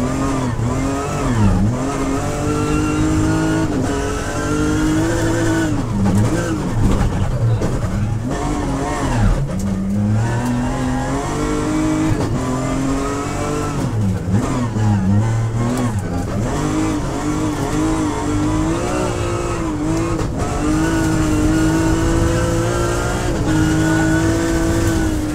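BMW M3X rally car's engine heard from inside the cabin under hard acceleration. The engine note climbs steadily and drops sharply again and again as the driver shifts gears and lifts off, with constant tyre and road noise underneath.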